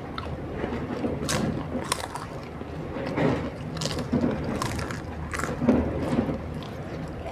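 Close-up eating sounds: chewing with several sharp, irregular crunches of a crisp snack.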